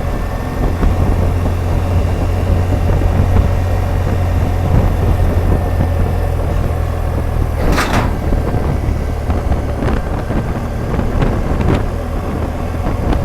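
BMW R1200GS Adventure motorcycle under way, its boxer twin engine and the rushing wind making a steady low rumble. A short sharp sound cuts through about eight seconds in.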